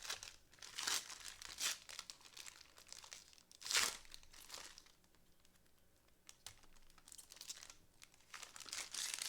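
Plastic trading-card packaging crinkling and tearing as it is opened by hand, in a string of short rustles with the loudest a bit under four seconds in and a quieter pause about halfway through.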